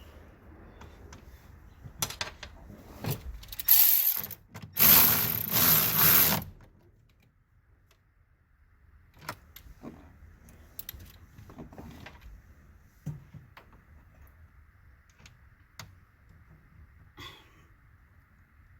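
Hand-tool work on a car: sharp clicks and clatter of metal parts, with a loud dense stretch of ratcheting and rattling in the first few seconds, then scattered clicks.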